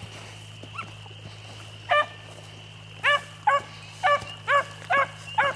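Beagle hounds baying on a rabbit trail: a string of about seven short, ringing chop barks starting about two seconds in, coming quicker after three seconds.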